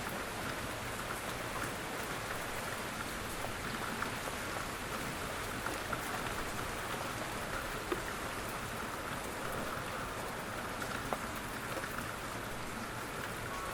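Steady rain falling: an even hiss with scattered single drops ticking now and then.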